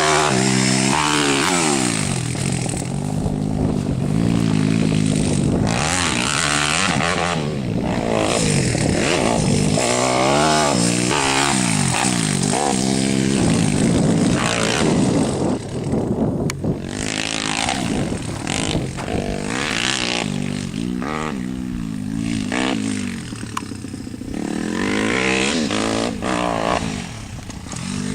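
YCF pit bike's small single-cylinder engine being ridden hard, its pitch climbing and dropping over and over with throttle and gear changes. It fades a little a couple of times as the bike runs farther off.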